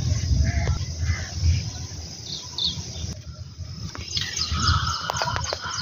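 Birds chirping in short, repeated high calls, busier in the last couple of seconds, over a low rumble of wind and handling on a phone microphone. A few sharp ticks sound about five seconds in.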